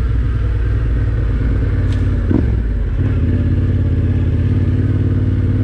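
Adventure motorcycle engine running steadily at low speed on a trail. The engine note changes about two and a half seconds in, just after a short knock.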